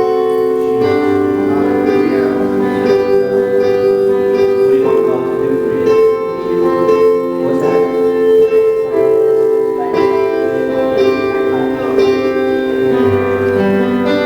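Background church music: sustained keyboard chords played softly under prayer, changing every second or two.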